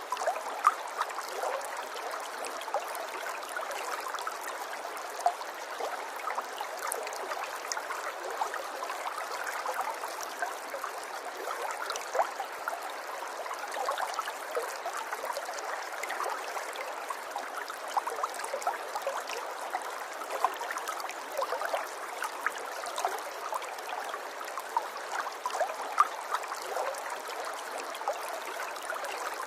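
River water flowing over rocks: a steady babble and gurgle with many small splashes and plops.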